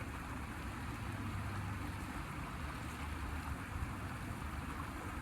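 Creek water running steadily, with a low rumble of wind on the microphone underneath.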